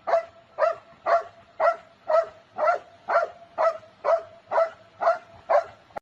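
A dog barking over and over at an even pace, about a dozen short, same-pitched barks, roughly two a second.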